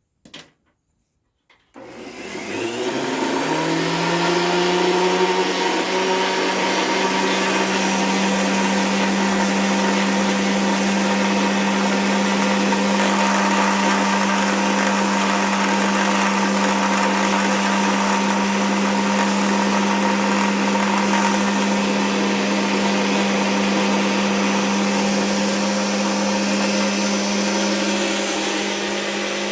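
Electric sander switched on about two seconds in, its motor winding up in pitch and then running steadily with a constant hum.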